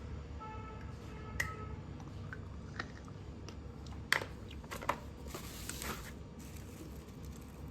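Slate pencils being bitten and crunched: a few sharp snaps, the loudest about four seconds in, then about a second of gritty crunching.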